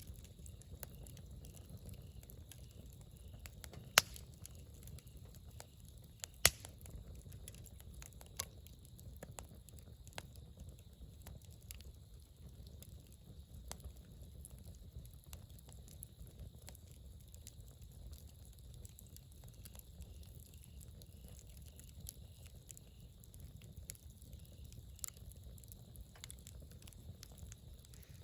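Wood campfire burning, with a faint low rumble and scattered small crackles, and two loud sharp pops about 4 and 6.5 seconds in.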